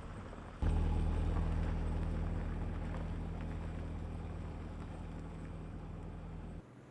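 A steady low mechanical hum, like an engine or motor running, that starts abruptly about half a second in and cuts off suddenly near the end.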